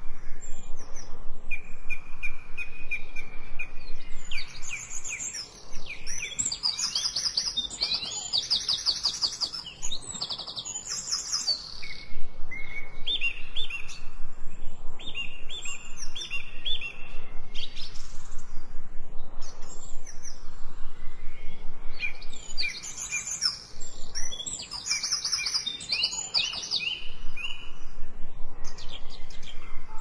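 Several songbirds singing in overlapping phrases: held whistled notes, fast trills, rising sweeps and quick runs of repeated chirps.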